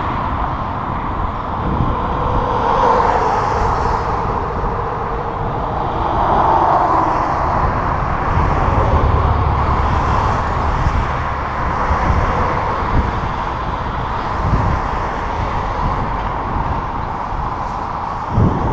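Wind rushing over the microphone and the rumble of a bicycle rolling along a trail, a steady noise that swells and eases, with a couple of knocks near the end.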